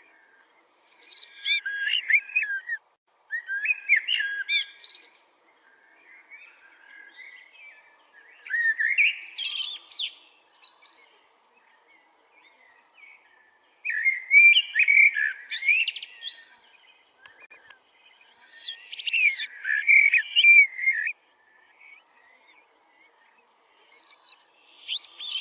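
A bird singing in short, loud phrases of rapid, high chirps and rising notes, six phrases with brief pauses between them.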